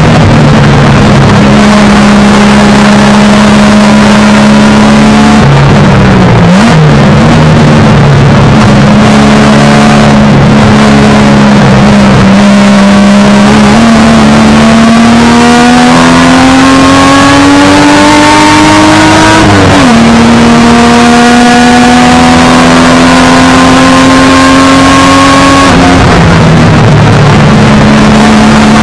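1971 Triumph GT6's straight-six race engine heard from inside the cockpit, loud and running hard under load with wind and road noise. Its pitch holds, then climbs steadily through a gear for several seconds, drops sharply at a gear change about two-thirds of the way through, climbs again and falls off near the end.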